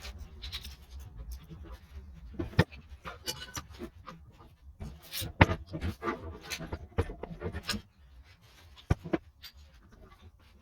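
Irregular sharp clinks and knocks of metal engine parts and hand tools being handled during motorcycle engine reconditioning, quieter toward the end.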